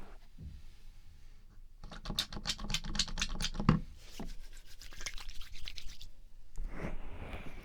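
Oily hands rubbing over a 3Dio binaural microphone in a gentle massage. The rubbing comes in quick strokes, about eight a second, for a couple of seconds, with one soft knock near the middle, then slower, lighter rubbing.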